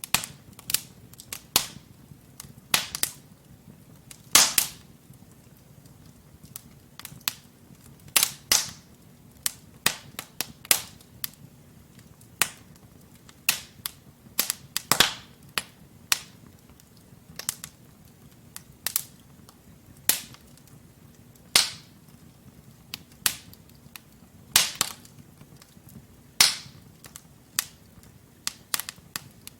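Wood fire of burning logs crackling in a fireplace: irregular sharp pops and snaps, a few louder than the rest, over a faint low hiss of the flames.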